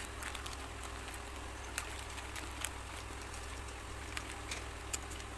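A few light, sharp clicks and small knocks from hand work on small parts, over a steady low hum.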